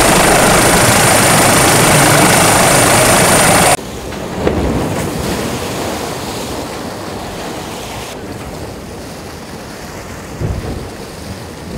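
A loud steady rush of noise with a thin high whine cuts off abruptly about four seconds in. After it, water rushes and spray breaks over the deck of a Volvo Ocean 65 racing yacht sailing fast, with wind on the microphone.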